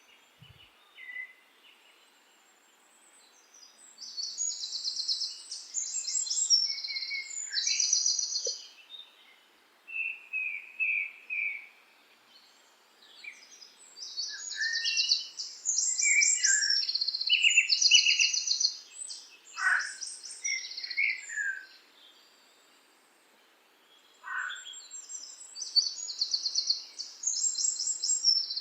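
Songbirds singing: several birds giving rapid, high chirping and trilling phrases that overlap, with short pauses between bouts.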